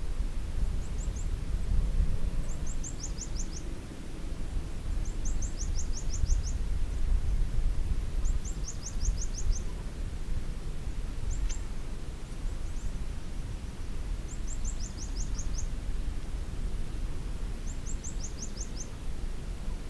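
Outdoor ambience with a steady low rumbling noise. A small bird repeats a short, high, rapid series of five to eight chirps about every three seconds.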